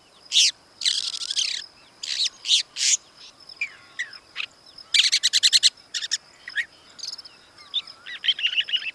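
Long-tailed shrike calling: a series of harsh, scratchy calls with a rapid run of about ten quick notes around five seconds in and softer chattering notes near the end. A faint steady high-pitched insect drone sits underneath.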